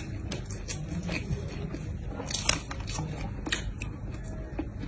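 Close-miked chewing of a mouthful of shrimp-and-chicken burger, with scattered wet mouth clicks and smacks, one sharper about halfway through.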